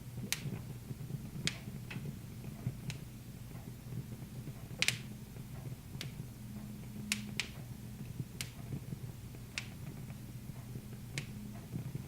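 Wood fire crackling in a fireplace: sharp, irregular pops, about a dozen, the loudest about five seconds in, over a low steady hum.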